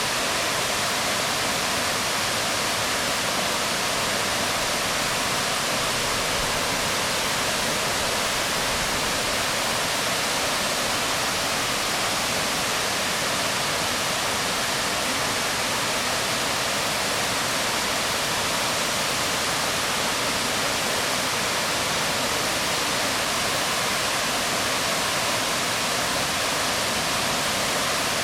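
Waterfall water falling onto rocks: a steady, even rush of splashing water with no breaks or changes.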